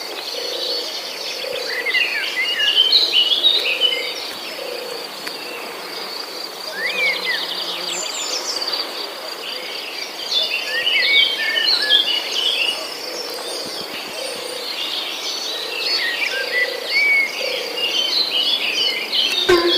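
Forest ambience: a steady high-pitched insect drone with many short bird chirps and trills over it, and a low call repeating about once a second underneath.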